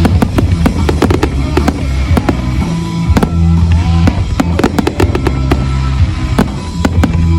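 Fireworks banging and crackling in quick succession, over music with sustained low bass notes.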